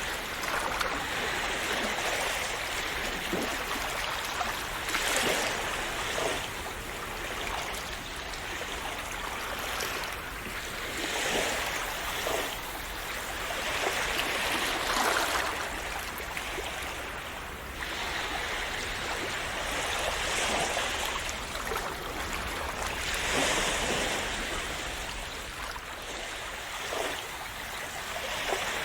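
Calm sea waves washing and splashing against the shore in a continuous rush, swelling every few seconds as each wave breaks.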